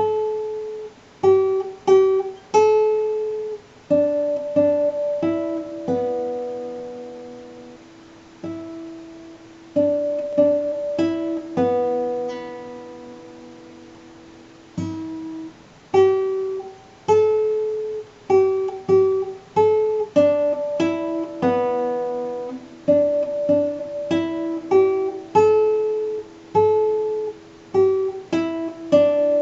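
Music: slow picked notes and chords on a plucked string instrument, each struck sharply and left to ring and fade, with short pauses between phrases.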